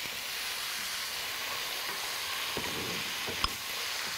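Chickpeas sizzling in a pan of hot oil tempered with mustard seeds, cumin, urad dal and red chilies: a steady frying hiss, with a single sharp knock about three and a half seconds in.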